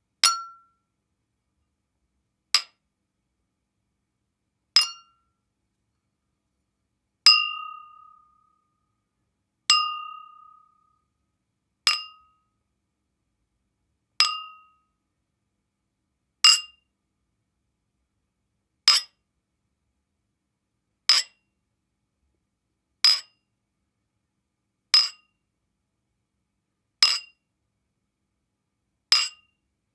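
A sharp, high clink repeated about every two seconds, fourteen times, with silence between. The first several strikes ring briefly with a clear tone; the later ones are shorter and drier.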